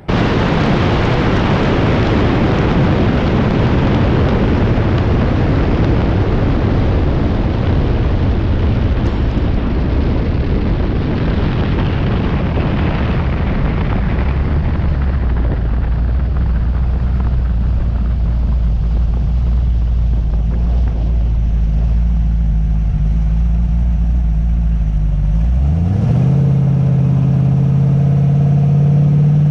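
Twin-turbo LS V8 Camaro engine running loud under a heavy rushing noise that gradually fades, settling into a steady low engine note. About 26 seconds in, the engine pitch climbs and then holds higher.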